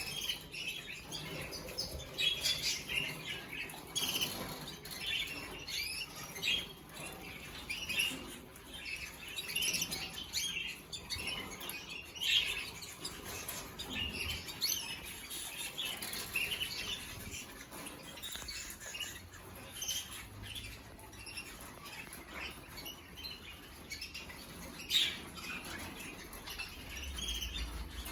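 Canaries chirping and calling, a steady run of short high chirps, with a few brief louder noises about twelve and twenty-five seconds in.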